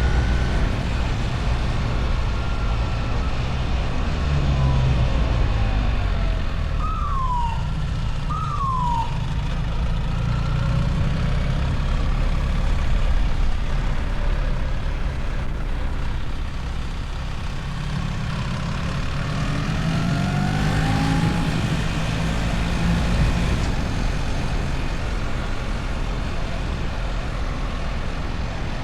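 BMW R1300 GS's boxer-twin engine running while riding, with wind noise. The engine's pitch climbs as it accelerates about twenty seconds in.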